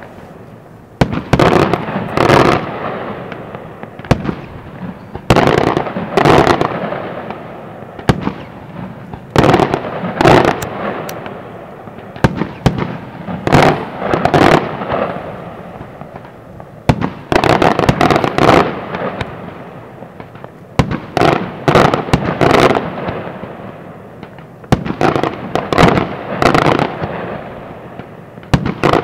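Aerial firework shells bursting in loud volleys of sharp bangs, a cluster about every three to four seconds, each volley dying away slowly before the next.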